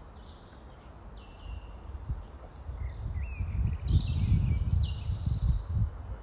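Several small birds singing and chirping, over an irregular low rumbling that builds from about a second and a half in and is loudest past the middle.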